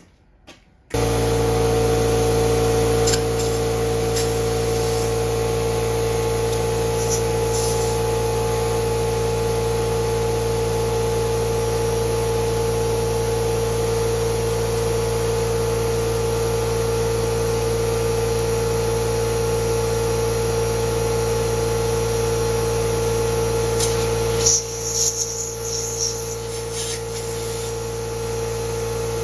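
Small engine of a Yanmar walk-behind cultivator running steadily, starting abruptly about a second in; near the end its deep part drops away, with a few sharp clicks, and it runs on a little quieter.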